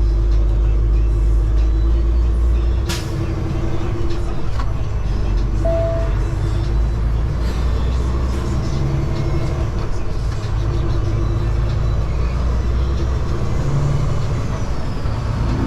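Semi truck's diesel engine running steadily at road speed with heavy low rumble, heard from inside the cab while pulling a loaded flatbed. A single sharp click comes about three seconds in.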